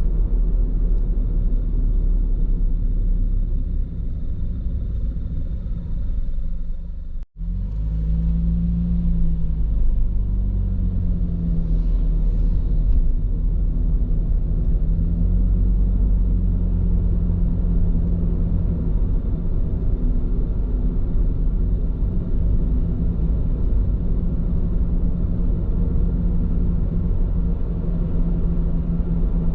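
Steady tyre and road rumble with a low engine hum inside the cabin of a car driving on Bridgestone Regno tyres, the hum rising and falling gently with speed. The sound cuts out for an instant about seven seconds in.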